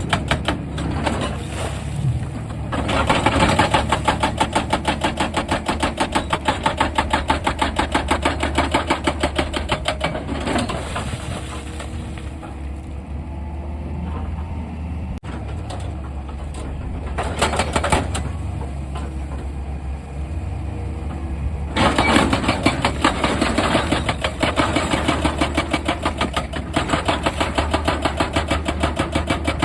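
Excavator-mounted hydraulic rock breaker hammering rock in long runs of rapid, evenly spaced blows, over the steady hum of the excavator's diesel engine. The hammering stops for a stretch in the middle, with only a couple of short bursts, then starts again.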